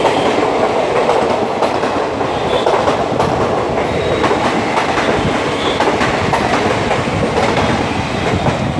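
Passenger coaches of an express train rushing past at speed, their wheels clattering over the rail joints on top of a loud, steady rolling noise. The noise eases near the end as the last coaches clear.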